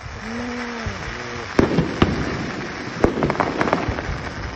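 Aerial fireworks going off: a sharp bang about one and a half seconds in and another about two seconds in, then a quick run of crackling pops about three seconds in.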